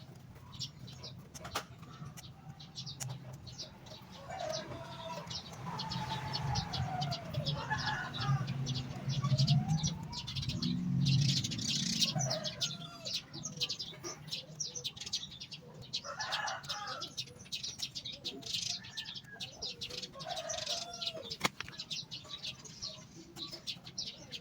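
Birds chirping in quick, repeated high notes, mixed with longer sliding calls and scattered clicks and rustles.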